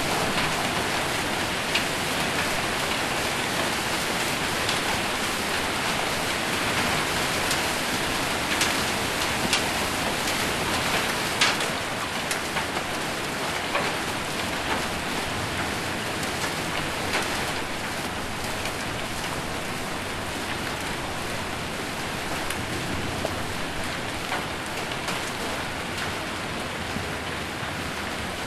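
Heavy rain mixed with hail hitting a surface: a dense steady rush with scattered sharp hits from stones, easing slightly in the second half.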